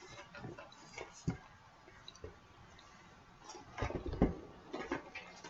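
Light clicks and knocks from sealed cardboard trading-card boxes being handled on a table, with a few louder taps about four seconds in.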